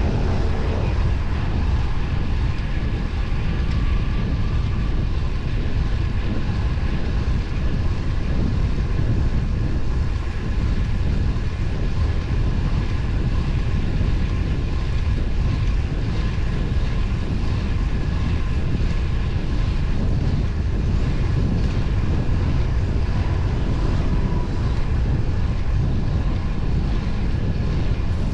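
Steady wind rush on the microphone and road noise from a road bike riding along at speed, a constant low rumble with no breaks.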